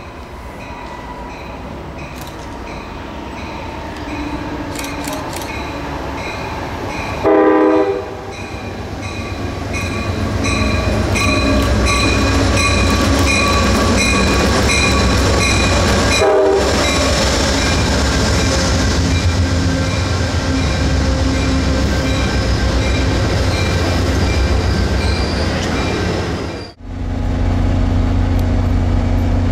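A train approaching and passing, its rumble building steadily and a short loud horn blast sounding about a quarter of the way through. A fainter second horn note comes around the middle, and a regular high-pitched ticking repeats through the passage. Near the end the sound cuts off abruptly and a steady low drone follows.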